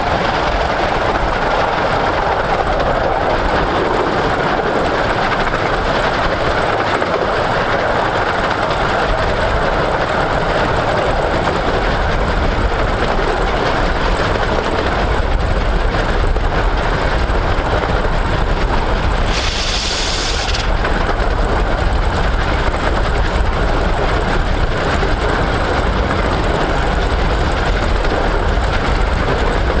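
Romney, Hythe & Dymchurch Railway 15-inch gauge steam train running steadily along the line, with a brief hiss about twenty seconds in.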